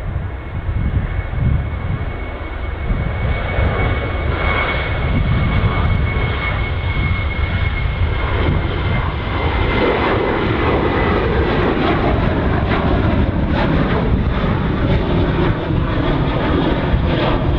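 Airliner engines running as an aircraft passes on the airfield: a steady rumble with a thin high whine that drifts slightly lower in pitch, growing louder from about ten seconds in.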